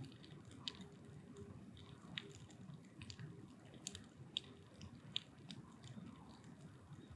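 Firewood burning in a steel drum, crackling softly with irregular sharp pops over the low rush of the flames.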